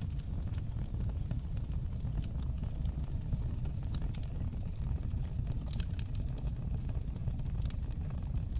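Fire burning in a stone fireplace, crackling with many small irregular pops, several a second, over a steady low rumble of the flames.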